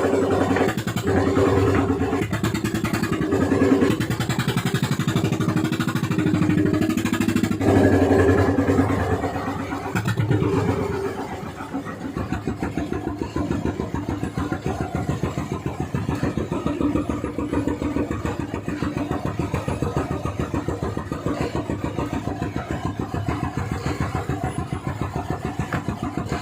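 Fishing boat's engine running hard, its pitch and loudness shifting through the first dozen seconds, then settling at a lower throttle into a steady, even beat of firing strokes.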